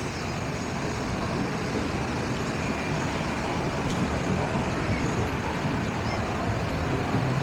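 Steady rumble of distant engines, growing slightly louder after the first second or so.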